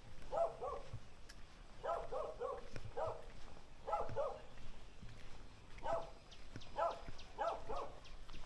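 Dog barking repeatedly in quick runs of two or three barks, with short pauses between the runs.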